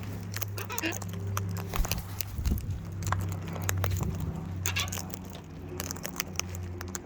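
Birds pecking and cracking seed: a scatter of sharp clicks and taps at uneven intervals, over a steady low hum.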